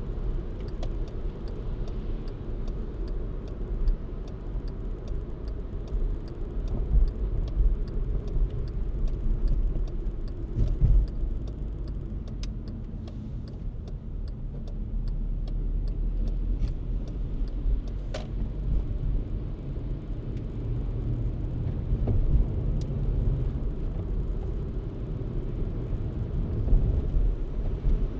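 Car driving on snowy city streets: a steady low road and engine rumble, with a run of faint, evenly spaced ticks through the first half and a single sharper click later on.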